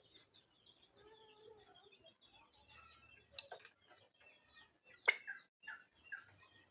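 Birds calling: a run of small high chirps throughout, with a few louder, sharper calls from about three and a half seconds in, the loudest just after five seconds.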